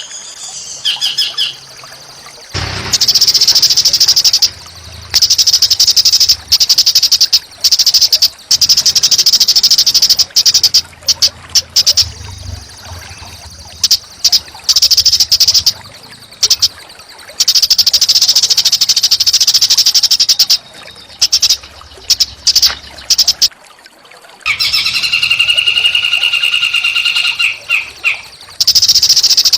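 Small songbirds giving harsh, buzzy song in long, rapid, dense trains several seconds long with short breaks, opening with a high trill. Near the end a steadier call with several stacked pitches holds for a few seconds.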